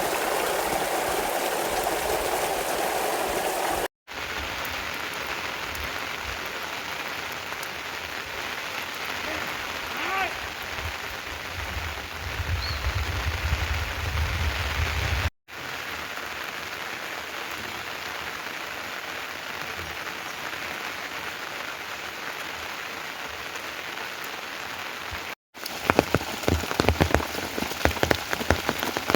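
Steady rain falling, heard in several short clips with brief breaks between them. In the last few seconds, close, heavy drops hit loudly and unevenly.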